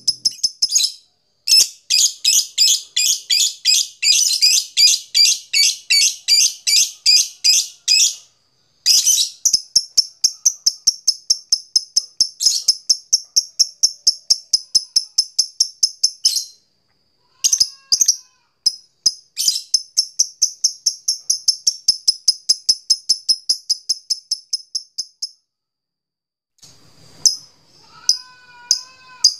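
Lovebird giving long 'ngekek' chatter: long runs of rapid, evenly repeated high, shrill notes at about five a second, broken by brief pauses. Near the end a different wavering call slides up and down in pitch.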